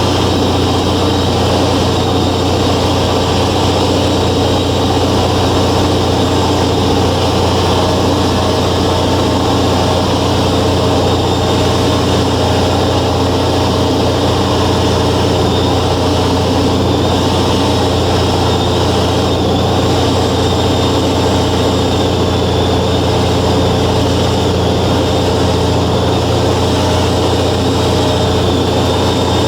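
Steady drone of a Velocity S-FG light aircraft's 180 hp piston engine and pusher propeller, heard from inside the cabin, holding an unchanging pitch and level throughout.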